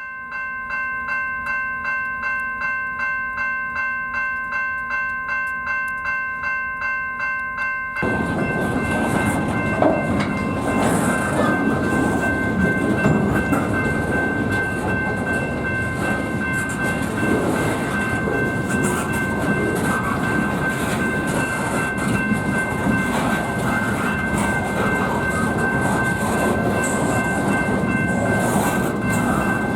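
Railroad crossing bell ringing about twice a second, then about eight seconds in a freight train reaches the crossing and the steady noise of its wheels and cars on the rails takes over, loud, with the bell still ringing underneath.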